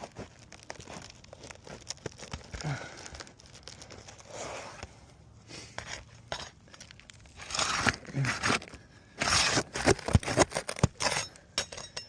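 Brittle roof shingles crackling and tearing as they are worked loose, in irregular scraping and crackling bursts that grow busier in the last few seconds.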